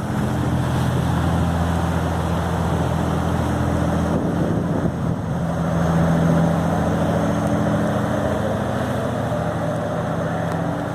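A boat engine running steadily under way, over a wash of water and wind noise. It grows a little louder about six seconds in, then eases off.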